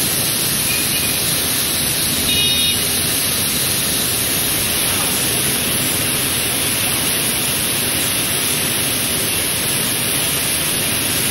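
Typhoon wind and heavy rain making a steady, unbroken rushing noise.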